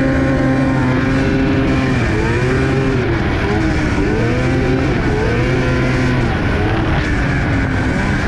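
Car engine revving up and down over and over, its pitch rising and falling about once a second over a steady drone.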